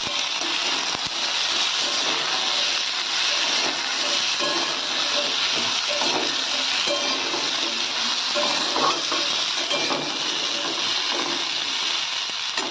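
Cubes of pumpkin and potato sizzling in hot oil in a kadai, a steady frying hiss, while a metal spatula stirs and scrapes them around the pan.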